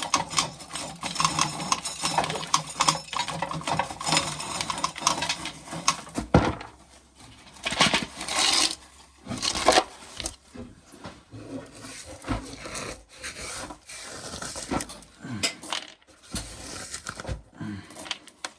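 Dried corn being shelled off the cob, the kernels clicking and rattling as they drop into a container, in irregular handfuls with a short pause about a third of the way through.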